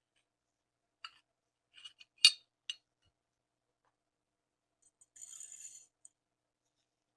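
Metal pistol parts clicking and clinking as they are handled: four sharp clicks, the loudest about two seconds in, then a short high metallic rattle or scrape a few seconds later.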